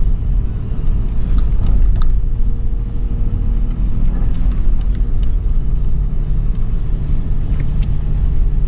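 2013 Toyota 4Runner's 4.0-litre V6 engine running steadily under load as it drives over sand, a low rumble with a held engine tone, with a few short clicks and knocks, about a second and a half in, two seconds in, and near the end.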